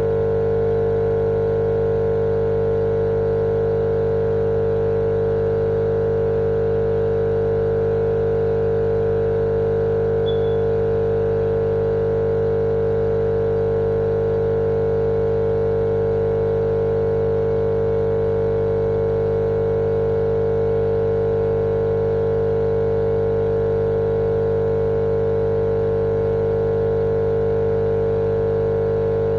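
Steady, unchanging droning hum with a strong mid-pitched tone and lower hum beneath it, a continuous sleep-noise track for lulling babies.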